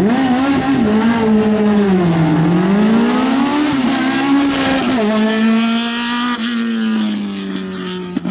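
Hill-climb race car engine accelerating hard away from the start line: the revs rise and fall, drop sharply about five seconds in at a gear change, then hold a steady note that slowly falls and fades as the car pulls away.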